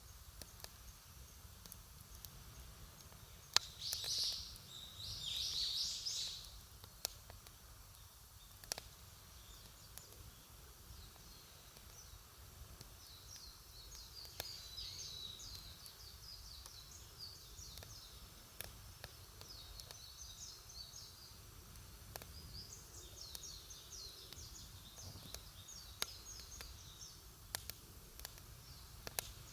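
Wood campfire crackling, with scattered sharp pops from the burning wood. Small birds twitter in quick high chirps, loudest a few seconds in and again through the middle stretch.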